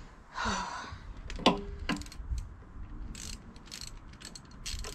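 Socket ratchet clicking in short irregular runs as a new spark plug is wound into the cylinder head and snugged up.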